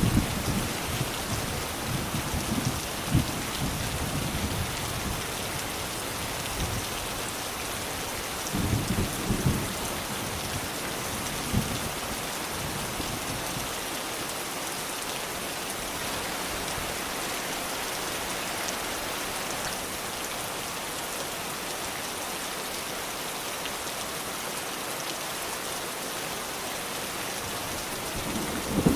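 Steady rain falling, with low thunder rumbling through the first few seconds, again around nine seconds in, and once more near the end.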